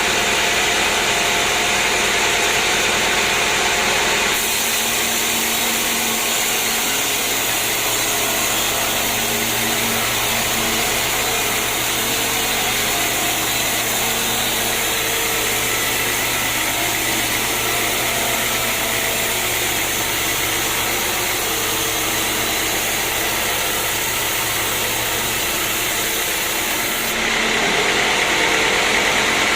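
Sawmill machinery running steadily: a loud, even mechanical noise with a steady hum. The sound changes abruptly about four seconds in and again near the end.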